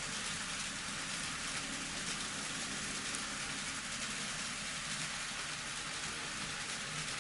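N scale model train running on the layout's track: a steady, even rattle and hiss of small metal wheels on rail, with a faint low hum from the motor underneath.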